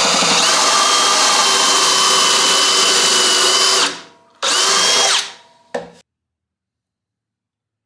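Electric power sander running steadily with a high motor whine. It is switched off about four seconds in, briefly switched on again with a rising whine, and winds down.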